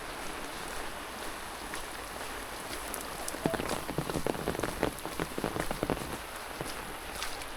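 Steady rain falling, with a run of louder, irregular taps and clicks about halfway through.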